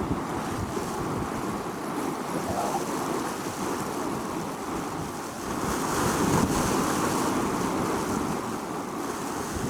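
Wind blowing over a sandy beach, a steady rushing that buffets the microphone and rises in a gust a little past halfway through.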